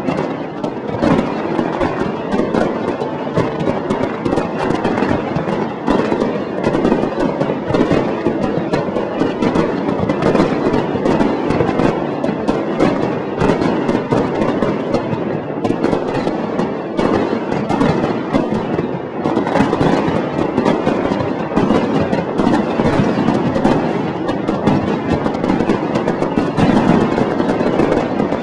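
Fireworks display: aerial shells going off in rapid, continuous bangs and crackling, with no let-up.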